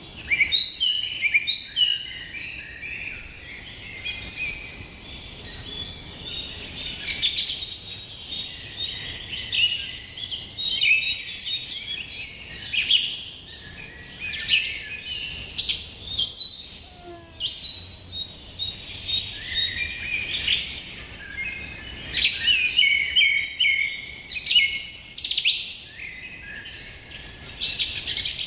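A dense chorus of wild birds singing and calling at once, many quick, overlapping high chirps and trills.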